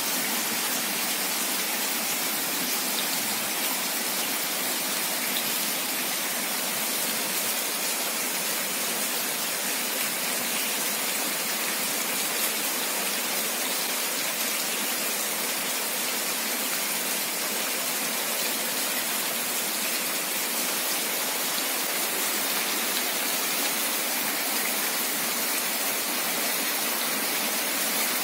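Steady rain falling on a flooded street: a constant, even hiss of drops splashing on standing water.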